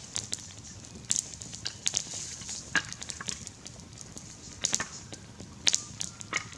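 Campfire crackling and popping, with irregular sharp snaps over a soft steady hiss.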